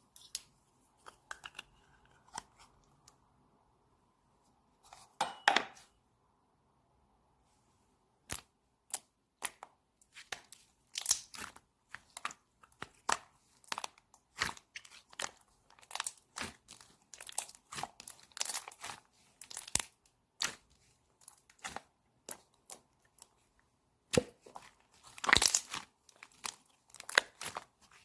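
Close-up crinkling and tearing handled by hand: a few scattered crackles at first, then from about a third of the way in a dense run of short, sharp crackles, loudest near the end.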